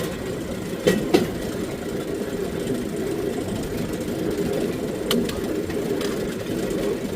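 Steel wheels of a pedal-powered rail bike rolling along the rails, a steady rumble with a few sharp clicks.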